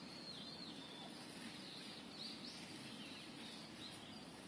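Faint bird chirps: a few short calls scattered over a low, steady background hiss.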